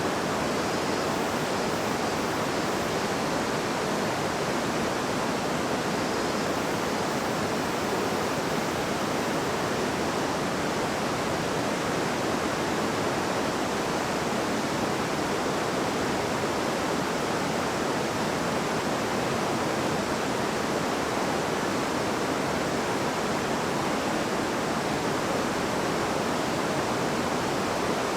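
River water babbling: a steady, even rush of flowing water.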